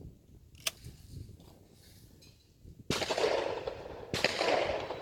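Two shotgun shots at a clay target, about a second and a quarter apart, each trailing a long echo.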